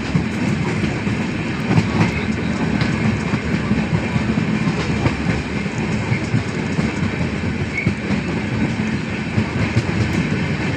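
Passenger train running along the track, a steady rumble with the wheels clattering and knocking over the rail joints.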